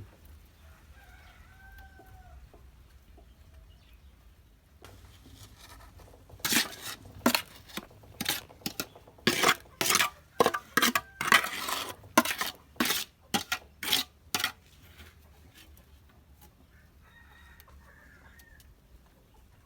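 Soil being scooped and poured into a tyre pen and levelled: a quick, irregular run of loud gritty scraping strokes lasting about eight seconds in the middle. A faint bird call is heard once before it and once after.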